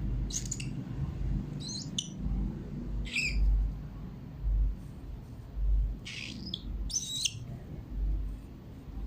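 Cockatiel giving short, high chirps and squawks, about five spread over several seconds, over low dull thuds from handling.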